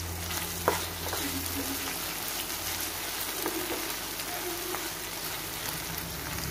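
Tomatoes and onions sizzling steadily in hot oil in a non-stick kadai, being stirred with a spatula, with a sharp tap of the spatula on the pan about a second in. The tomatoes are frying down in the onion and ginger-garlic masala.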